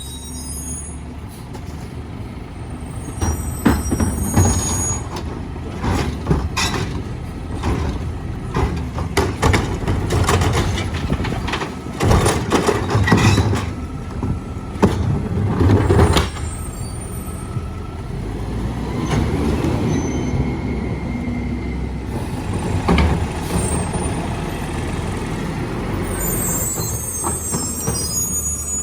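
Mack MRU garbage truck with a McNeilus rear-loader body at work: the diesel engine runs throughout, with a run of clanks and bangs in the first half or so from the hopper and packer. High squeals of the air brakes come near the start and again near the end.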